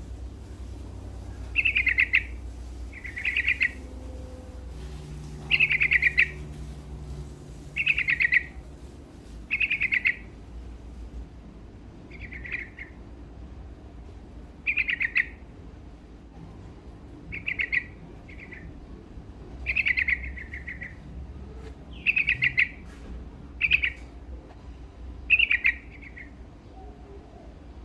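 Yellow-vented bulbul (trucuk) singing: short phrases repeated every one to two seconds, over a faint low hum.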